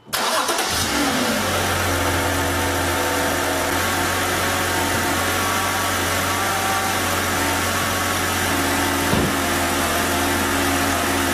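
BMW 128i's N52 straight-six engine starting up: it catches with a brief flare of revs that falls away within the first second or so, then settles into a steady idle.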